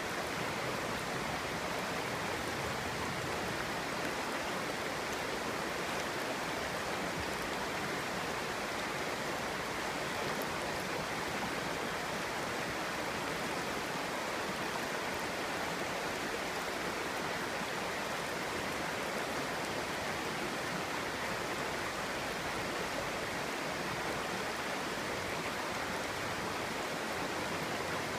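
A clear stream flowing and babbling over rocks: a steady, even rush of water with no breaks.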